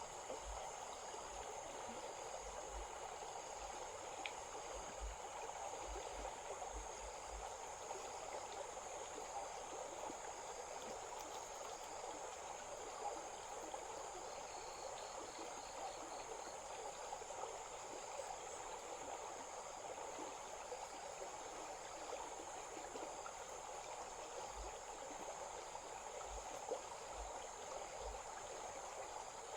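A stream running steadily, with a constant high insect drone over it and a short quick series of chirps about halfway through.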